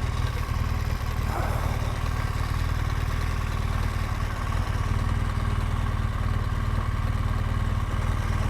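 BMW R1200GSA flat-twin boxer engine running steadily at a low, even speed, with no revving.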